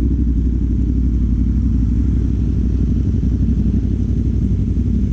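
CFMoto 450 parallel-twin motorcycle with a Yoshimura AT2 replica slip-on exhaust, running steadily with a deep, even note, heard through a helmet intercom microphone.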